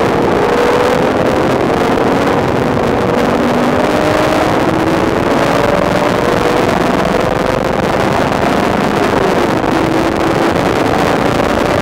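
Porsche 996 GT3 RS's 3.6-litre flat-six engine at speed on track, heard from inside the cabin, its note climbing slowly in long sweeps over loud road and wind noise.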